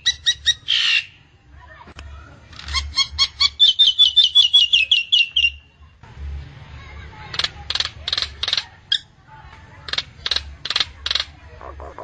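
Nias hill myna calling: a quick run of repeated whistled notes a few seconds in, then two bursts of sharp, clicking calls. A faint steady low hum runs underneath.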